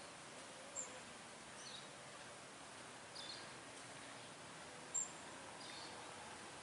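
Faint outdoor background hiss with small birds chirping: short high chirps recurring about every one and a half seconds, and two sharper, louder chirps, one about a second in and one about five seconds in.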